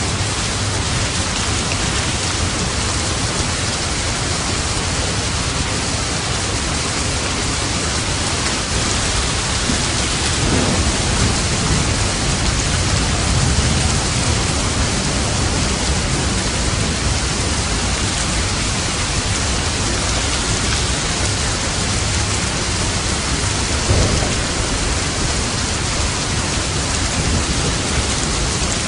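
Steady heavy rain with low rolls of thunder: one swells in about a third of the way through, and a sharper clap comes about five-sixths of the way through.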